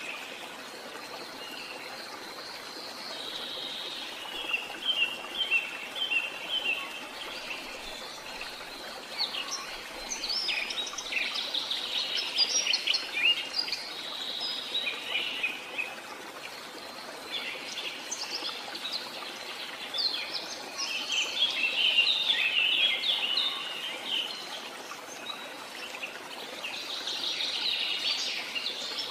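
Small songbirds chirping and singing in busy clusters that come and go, over a steady background hiss.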